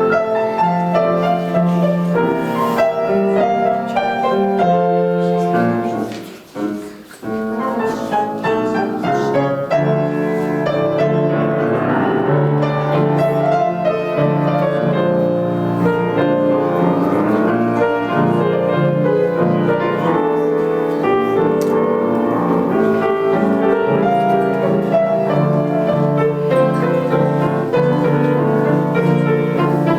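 Piano playing a classical piece, with a short break in the sound about six seconds in.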